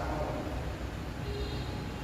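Low steady rumble of background noise with faint distant voices, and no racket strikes.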